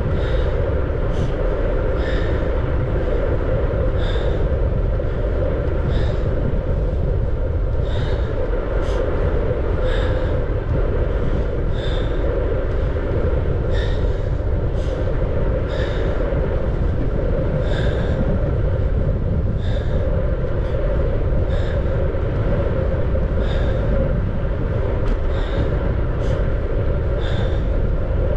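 Steady wind and road rumble on a camera riding along on a moving bicycle, with a light, sharp click repeating about once a second.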